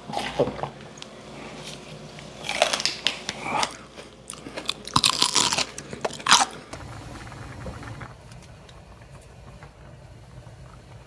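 Close-up crunching and chewing as a crisp piece of food is bitten into right at a handheld microphone, in several crackly bursts. A quieter low steady hum follows from about seven seconds in.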